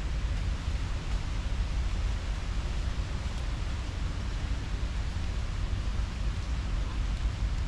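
Steady outdoor ambience of even noise: a low, fluttering rumble with a broad hiss over it, and no separate events standing out.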